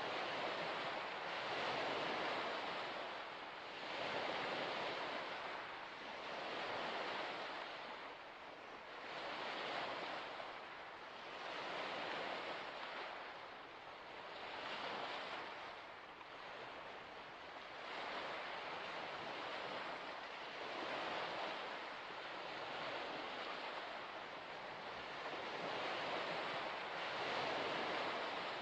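Small waves washing onto a shore in an even rhythm, a surge of water noise rising and falling about every two seconds.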